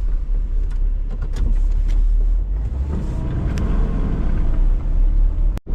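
Truck driving: a steady low engine and road rumble with a few small clicks and rattles, which cuts out for a moment near the end.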